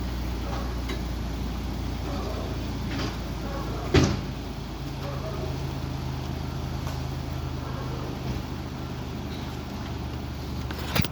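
A steady low hum with two sharp thumps, one about four seconds in and one near the end.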